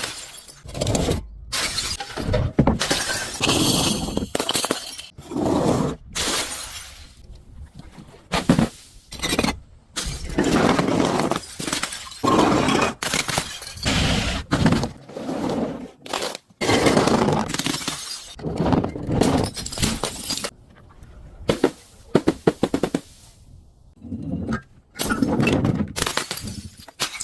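Glass bottles being broken and crushed: crunching and shattering glass in a long run of separate loud bursts, many cutting off abruptly, with short quieter gaps between them.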